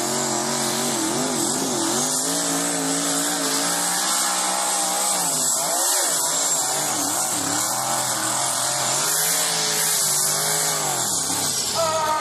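Pulling tractor's engine running flat out under heavy load on the sled, labouring, its pitch wavering and sagging, with a short dip about six seconds in.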